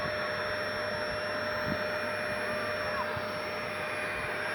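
Steady whir and rush of air from a running vacuum motor, holding one even pitch.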